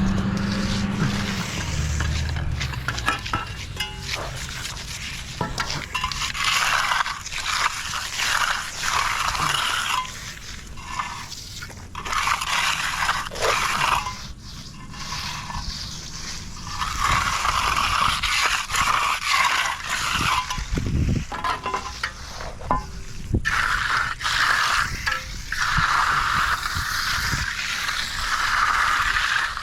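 Hand tools scraping through wet concrete in stretches of a few seconds, with scattered clinks and knocks.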